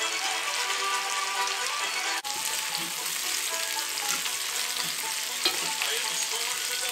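Background music for about the first two seconds, cut off suddenly. Then parboiled potato chunks and chicken ballotines sizzle in a cast-iron skillet as a fork scrapes and turns them, with one sharp click of metal on the pan about five and a half seconds in.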